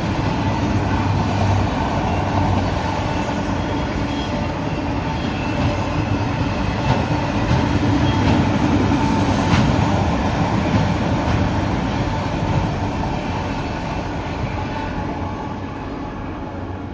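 Freight train rolling past, its steel wheels rumbling along the rails with faint clicks, the sound fading over the last few seconds as it moves away.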